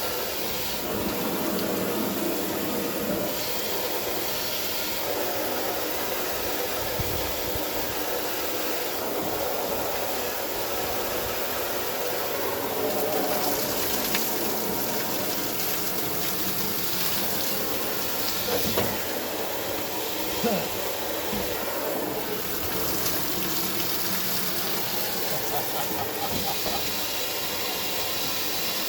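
Garden hose spraying water into a plastic kayak hull to flush out gravel, a steady hiss of spray with water splashing inside. A couple of brief knocks come about two-thirds of the way through.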